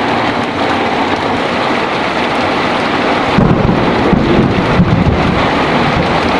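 Heavy rain falling steadily, with a low rumble of thunder starting about halfway through and lasting about two seconds.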